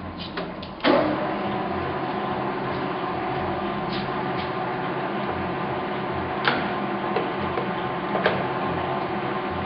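Victor 2040 engine lathe running: a clunk about a second in, then a steady machine hum with a low repeating pulse and a few light clicks.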